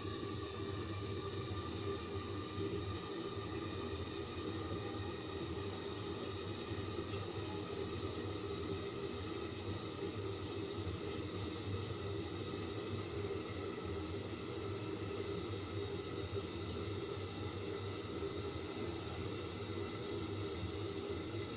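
Spice paste and chopped eggplant cooking in a covered pan on the stove: a steady low rumble and hiss with a faint even hum.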